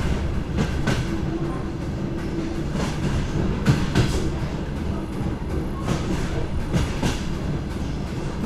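DR1A diesel railcar running along the line, heard from on board. A steady low rumble runs throughout, with the wheels clacking over rail joints in irregular knocks.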